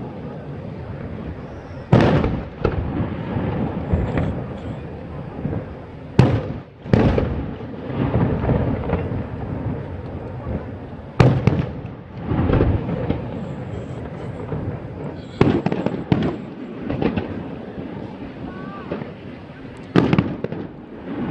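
Aerial fireworks shells bursting: about eight sharp bangs at uneven intervals, each trailing off in a rumble, over a steady murmur of voices.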